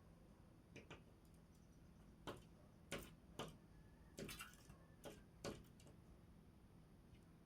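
Near silence broken by faint, irregular clicks or taps, about ten of them, spaced unevenly and bunched in the middle seconds.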